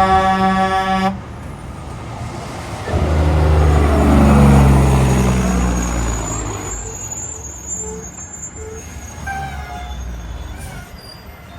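A truck's air horn blasting and cutting off sharply about a second in. A few seconds later a heavy truck passes close by, its engine note falling in pitch as it goes past and fades away.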